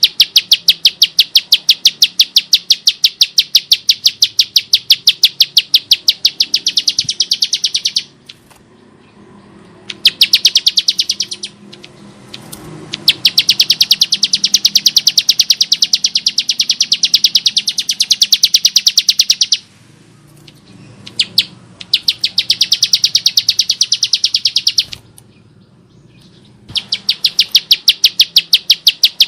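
Bar-winged prinia (ciblek sawah) calling in long, fast runs of sharp, rasping repeated notes, broken by a few short pauses.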